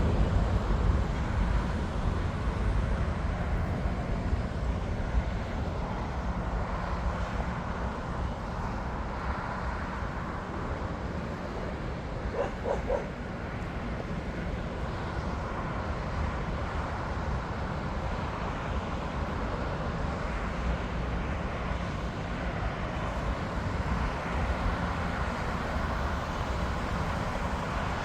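Steady low rumble of airport and road traffic, with jet aircraft engines in the mix. A dog barks briefly, about three times in quick succession, about halfway through.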